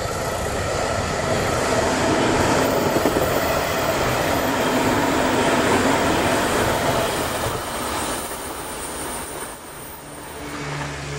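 JR Shikoku 8000 series electric express train passing close at speed: a loud rush and rumble of wheels on rail with some clatter, easing after about eight seconds. Near the end a steady low hum sets in as another train approaches.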